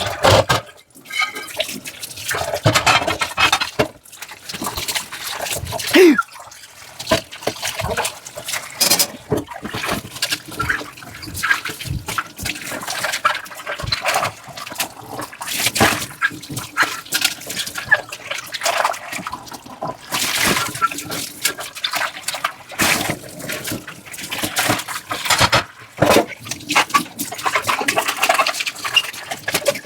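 Dishes being washed by hand in a sink: water running and splashing, with irregular knocks and clinks of dishware and scrubbing.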